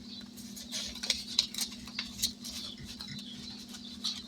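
Light clicks, taps and rustles of hands handling paper cash and savings-challenge sheets, over a faint steady hum.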